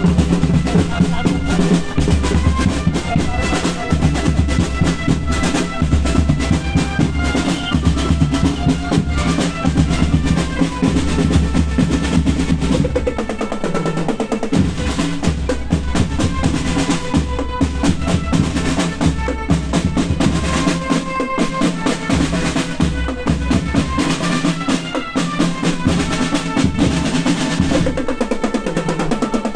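Marching band playing: rapid snare drum rolls and bass drum beats under brass playing a melody.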